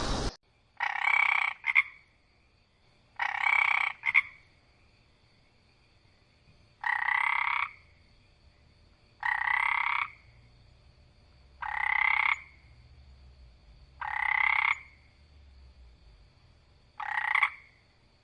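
A frog croaking: seven evenly spaced croaks, each just under a second long, about two and a half seconds apart; the first two are each followed by a short extra note.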